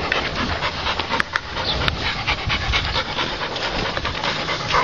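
A dog panting close by, with a few sharp clicks of a pit being dug in dry ground.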